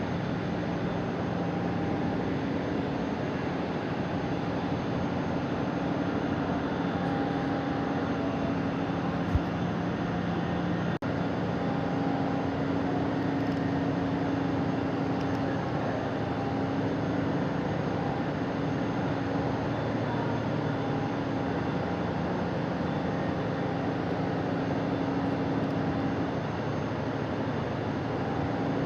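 Steady mechanical hum over a hiss, with a low drone; a single sharp click about nine seconds in.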